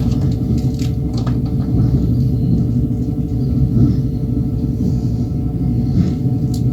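Passenger train running on the rails, heard from inside the carriage: a steady, loud low rumble of wheels and track with a held ringing tone, and a few faint clicks about a second in.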